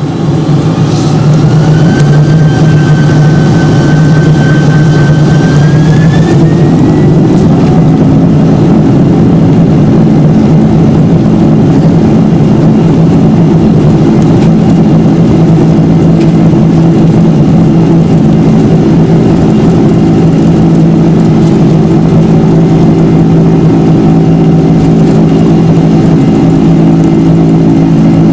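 Boeing 747 jet engines at takeoff power, heard from inside the cabin: a loud, steady roar. A whine rises in pitch over the first several seconds as the engines spool up, then holds steady.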